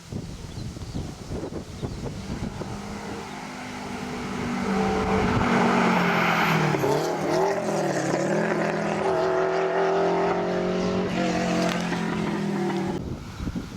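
Renault 5 Turbo 2's turbocharged four-cylinder engine running under load. It grows louder a few seconds in, its pitch dips briefly and climbs again about halfway through, then holds and drops away near the end.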